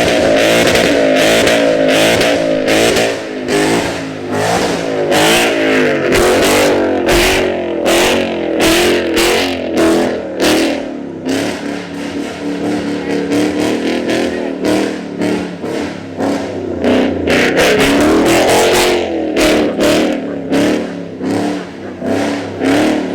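Loud vehicle engine revving over and over, its pitch climbing and dropping repeatedly, with frequent sharp pops.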